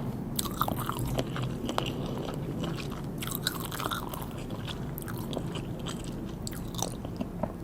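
Close-miked chewing and biting of sushi, with irregular crisp clicks and crunches between wet mouth sounds.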